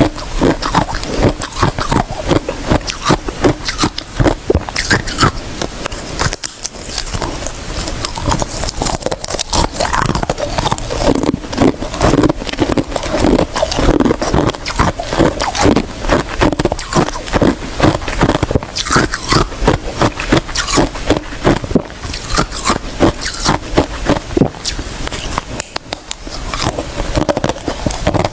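Ice being bitten and chewed close to the microphone: rapid, loud, crisp crunches, several a second, running on without a break.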